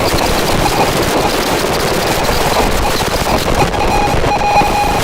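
Harsh noise music from Eurorack modular synthesizers: a dense, steady wall of crackling, hissing noise. Thin high and mid tones come back into it about three and a half seconds in.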